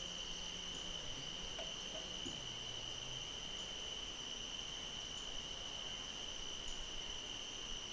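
Steady chorus of crickets trilling without a break at one high pitch. A faint low drone that shifts in pitch stops about three seconds in.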